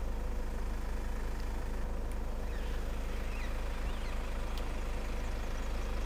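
Vehicle engine idling steadily, a low even rumble with a faint constant hum above it.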